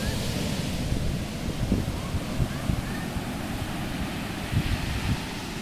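Ocean surf breaking and washing on a beach, with strong wind buffeting the microphone in a low, uneven rumble.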